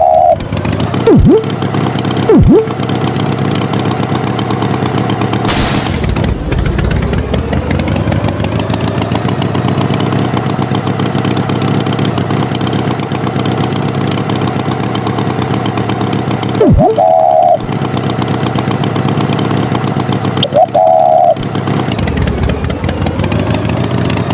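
Tractor engine running steadily, with a few short, higher tones and quick falling swoops laid over it.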